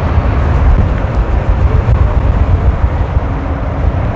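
Strong wind buffeting the microphone: a loud, uneven low rumble that keeps rising and falling.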